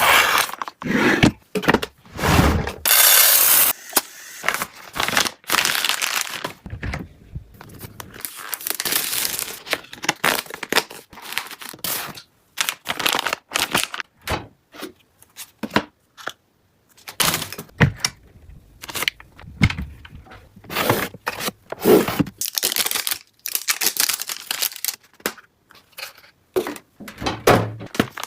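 Packaging being handled: irregular bursts of tearing, crinkling and scraping, with short pauses between them and an occasional low knock.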